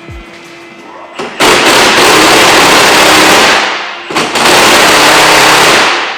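A power tool running loudly in two long bursts of about two seconds each, with a short break between them.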